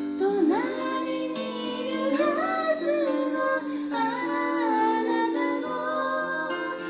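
A woman singing a slow, gentle ballad in Japanese, with a second voice in harmony, over a soft piano accompaniment.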